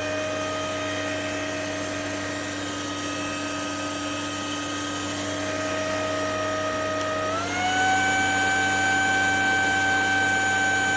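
ElecKeys K10 cordless stick vacuum running with a steady motor whine, stepping up to a higher, louder speed about seven seconds in.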